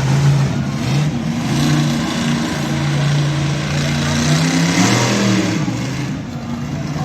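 Monster truck engine running loudly, its pitch stepping and gliding up and down as the throttle is worked, with a dip and rise about four to five seconds in.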